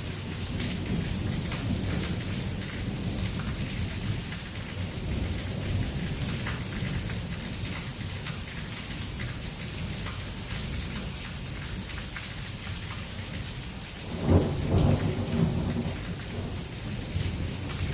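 Heavy thunderstorm rain, a steady hiss, with low rumbling underneath. About fourteen seconds in, a loud thunderclap breaks in and rumbles for a couple of seconds.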